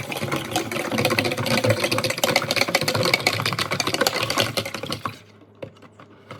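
Chicks' drinking water with garlic cloves and honey in it being stirred briskly in its container: a fast, steady clatter that stops suddenly about five seconds in.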